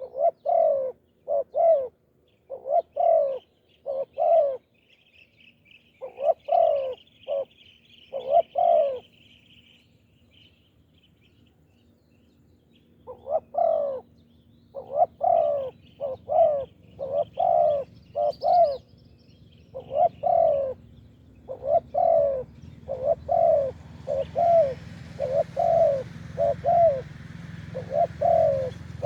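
Spotted doves cooing over and over in short phrases of low coos, with a pause of a few seconds about a third of the way through. A small bird twitters high above the coos early on.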